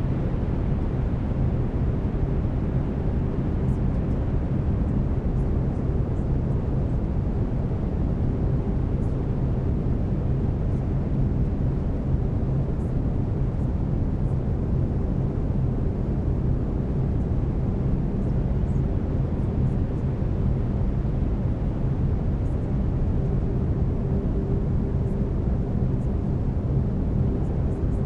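Steady brown noise, a deep even hiss strongest in the bass, with faint steady low tones underneath from binaural beats.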